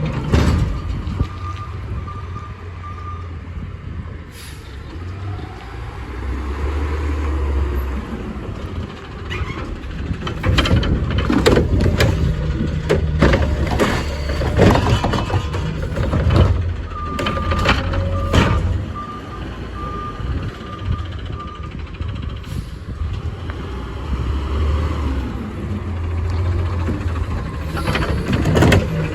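Peterbilt 520 garbage truck with a Curotto Can collecting trash: the diesel engine rumbles and revs up twice. In the middle there is a run of sharp bangs, clatter and air hisses as carts are dumped. A beeping alarm sounds near the start and again about two thirds of the way through.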